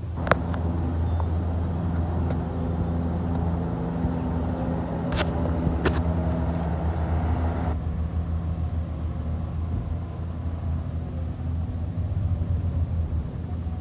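Garbage truck's engine running steadily, with a few sharp clanks and a faint rising whine partway through.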